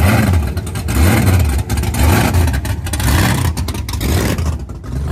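Car engine being revved over and over, its pitch rising and falling about once a second.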